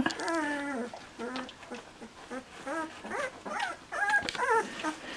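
Two-week-old Bernese Mountain Dog puppy whimpering: one long falling whine, then a string of short squeaky cries.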